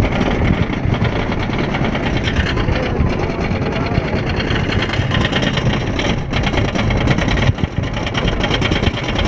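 Amusement park ride in motion: a loud, steady mechanical rumble and rapid rattle, with brief dips in level a little past the middle.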